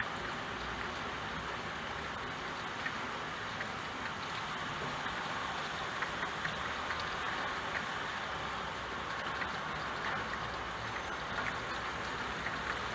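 Steady rain falling, with scattered louder drops ticking through it.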